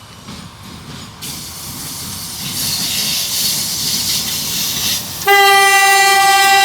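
A 2ES4K electric freight locomotive approaching, its rushing noise building, then its horn sounding one long, loud blast from about five seconds in.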